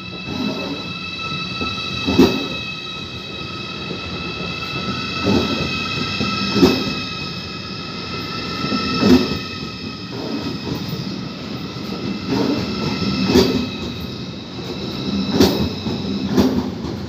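A train rolling slowly over the tracks, its wheels knocking over rail joints or points at irregular intervals of one to three seconds, under a steady high whine.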